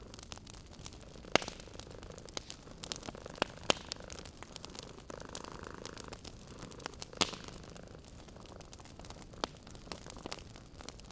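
Wood fire crackling in a fireplace, with irregular sharp pops, the loudest three about a second and a half, three and a half and seven seconds in, over a soft hiss. A cat purrs gently underneath.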